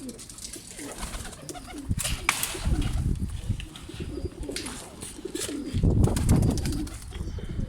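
Domestic pigeons cooing at close range, with scattered sharp clicks. The cooing grows louder about six seconds in.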